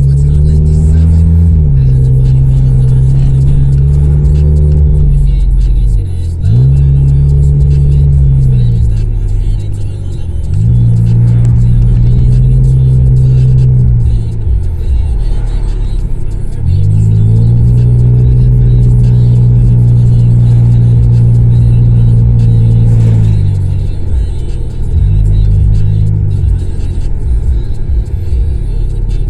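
Honda CR-V's four-cylinder engine revving loudly through an exhaust with the resonator and muffler deleted. About six times the revs climb, hold steady for a few seconds, then drop back.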